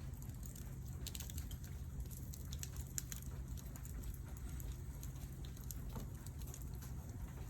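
Wood campfire crackling on a stainless steel mesh fire stand, with scattered sharp pops and snaps over a low steady rumble.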